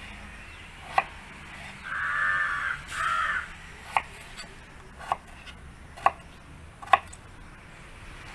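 A kitchen knife cutting potato on a board, with sharp knocks about once a second. A crow caws twice, in two drawn-out calls about two and three seconds in.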